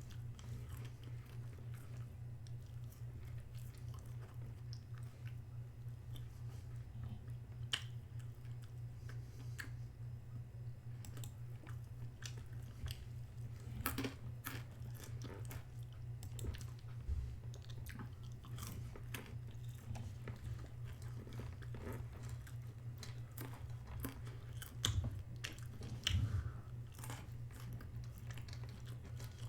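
A person chewing and biting food in small, irregular mouthfuls, with a few louder bites near the end, over a steady low electrical hum.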